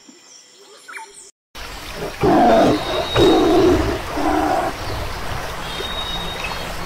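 A tiger roaring three times, short low roars about a second apart, over the steady rush of a waterfall.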